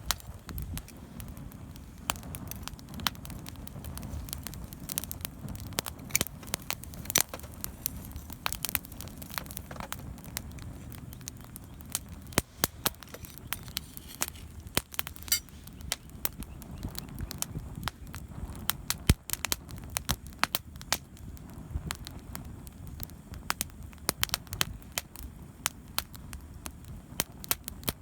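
Wood campfire burning, with irregular sharp crackles and pops from the burning wood over a low steady rumble of flame.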